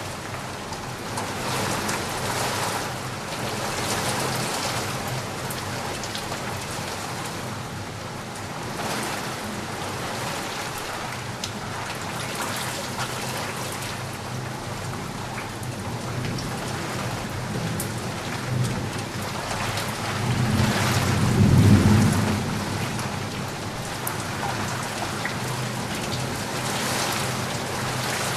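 Heavy rain falling steadily, with a low roll of thunder that swells about twenty seconds in and fades a couple of seconds later.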